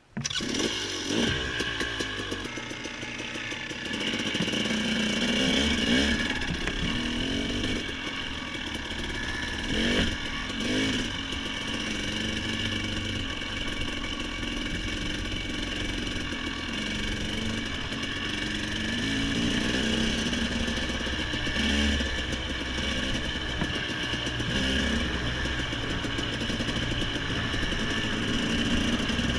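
Engine of a small off-road vehicle running along a trail, its revs rising and falling again and again.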